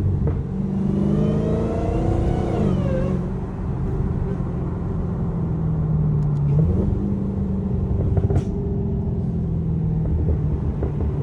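Supercharged 6.2-litre Hemi V8 of a Dodge Charger SRT Hellcat Redeye running under way. A whine rises about a second in and drops away just before three seconds, then the engine runs steadily.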